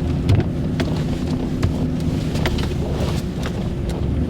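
Pickup truck driving slowly through slush in four-wheel drive, heard from inside the cab: a steady low engine hum, with the noise of the tyres in slush and scattered clicks and knocks.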